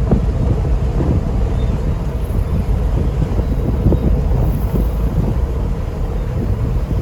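Wind buffeting the microphone outdoors: a steady, loud low rumble.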